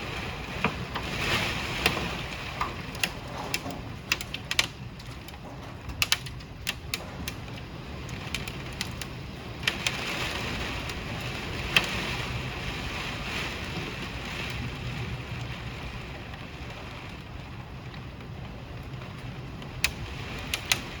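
Hailstorm: a steady hiss of heavy rain and hail, with scattered sharp knocks of hailstones striking hard surfaces, a dozen or so, most of them in the first seven seconds.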